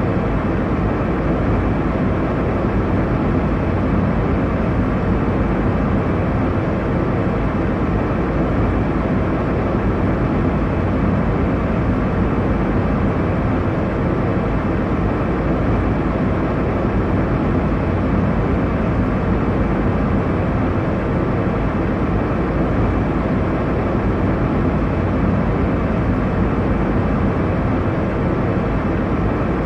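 Airliner cabin noise in flight: a steady, even rush of engine and airflow noise, mostly low and mid in pitch, with a faint hum under it.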